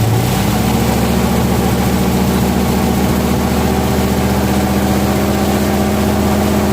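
Car drivetrain running in gear on jack stands at about 50 mph. Its 12-bolt rear end, fitted with a worn ring and pinion, sounds rough, 'like a freight train'. The pitch steps up just at the start, then holds steady.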